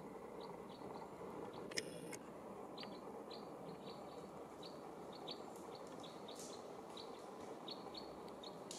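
Small birds giving short, high chirps, about two a second, over a faint steady forest hiss. A single sharp click about two seconds in.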